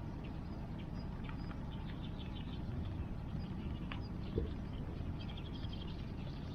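Steady rush of a river and rain around a wood fire, with runs of short high chirping calls and an occasional sharp crackle from the burning wood.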